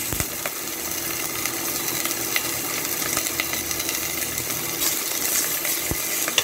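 Steady sizzle of chicken livers and hearts frying in oil in a stainless steel pot, with a few light metallic clicks; near the end a metal spatula taps the pot.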